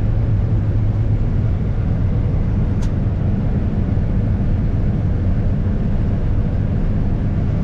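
Heavy vehicle engine running steadily, an even low drone with no change in pitch or level.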